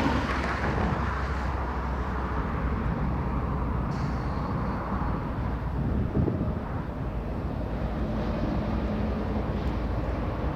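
Diesel freight locomotives running, a steady low engine rumble.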